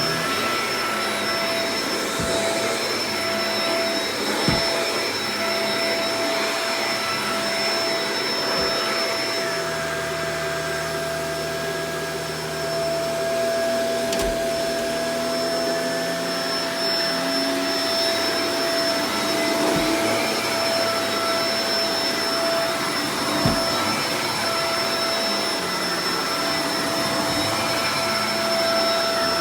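Shark Professional Powered Lift-Away DLX (NV586) upright vacuum cleaner running steadily: a rush of air with a constant high whine, broken by a few brief knocks.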